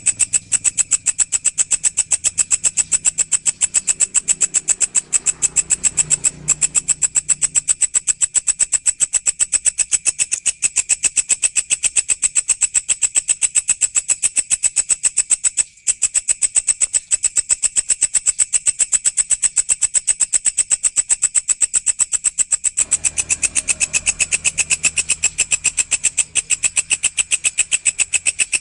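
Walang (katydid) calling: a rapid, steady train of evenly spaced high-pitched pulses, broken once briefly about halfway through.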